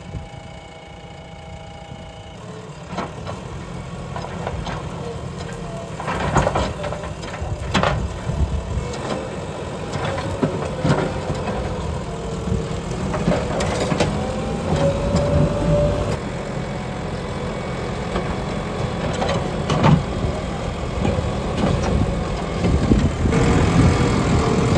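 JCB backhoe loader's diesel engine running and working, growing louder, with a wavering whine and sharp metal clanks and knocks scattered through it.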